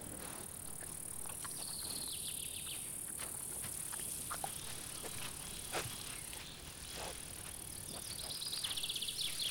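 Woodland ambience: insects chirring steadily and high, a bird trilling twice (about a second and a half in and again near the end), and a few scattered snaps and rustles.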